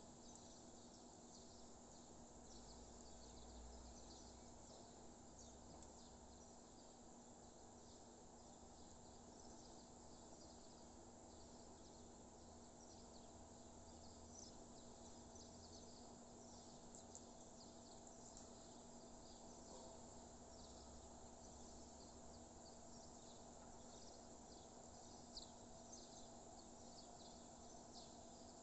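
Faint dawn chorus of many distant birds chirping continuously, with a steady low hiss and hum underneath.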